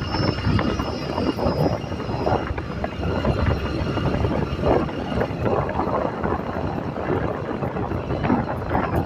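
A motor vehicle running, a steady rumble with fluctuating noise.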